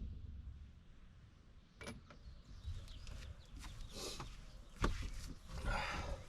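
A few scattered, faint knocks and clunks from parts being handled in a boat as the seats come out, with a short rustle near the end.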